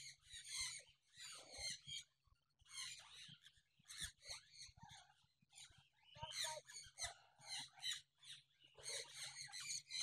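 Faint, busy chirping and chattering of many caged parrots and other small birds, short high calls following one another all the way through.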